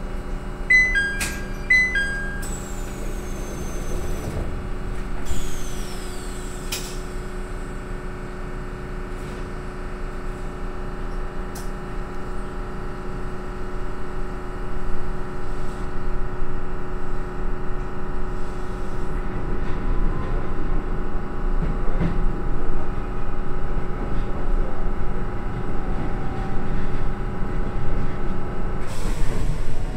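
Interior sounds of a train: a short two-tone door chime about a second in, then the doors sliding shut. The car's equipment hums steadily as the train pulls away, and the running noise grows louder from about halfway through.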